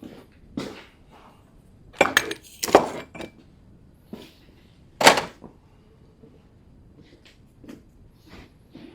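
Metal hand tools being handled: scattered clinks and knocks, with a few sharper clanks about two to three seconds in and the loudest one about five seconds in.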